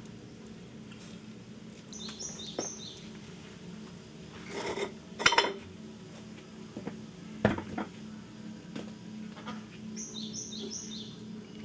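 Dishes and utensils clattering, with a cluster of knocks about five seconds in and another couple of seconds later. A small bird chirps a short run of high notes twice, near the start and near the end.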